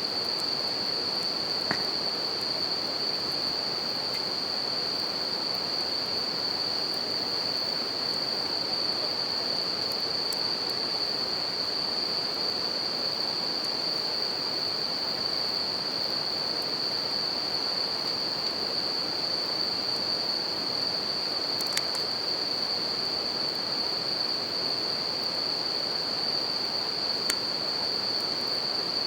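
Bell crickets (suzumushi) singing in a continuous high-pitched chorus over the steady rush of a river, with a few sharp crackles from a wood campfire.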